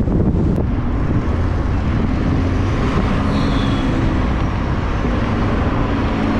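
BMW E90 335d's twin-turbo diesel engine running while the car is under way, a loud steady rumble with a brief high whistle about halfway through.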